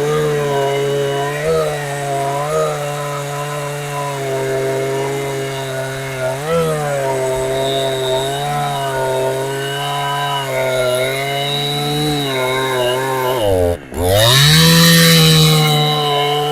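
Clone Husqvarna 372XP two-stroke chainsaw, running on a genuine OE carburettor, with small throttle blips. Near the end the revs dip sharply for a moment, then the saw is opened up to high revs.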